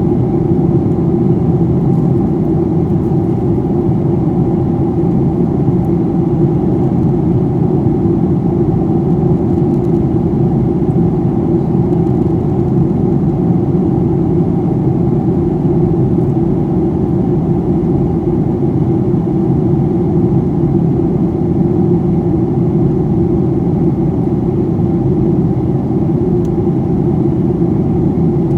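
Steady cabin noise inside a Boeing 737-800 in flight: a constant low rumble of its CFM56 jet engines and the airflow over the fuselage, with a steady hum just under 1 kHz.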